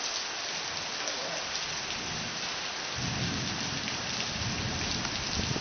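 Rain falling steadily, with a low rumble of thunder coming in about halfway through and carrying on.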